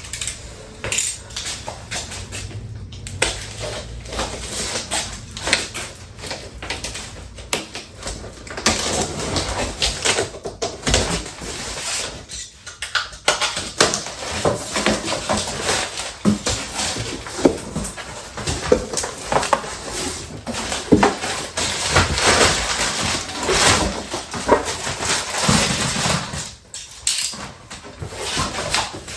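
A cardboard shipping box and its packing being opened and handled: continuous irregular rustling, scraping and knocks of cardboard and packaging.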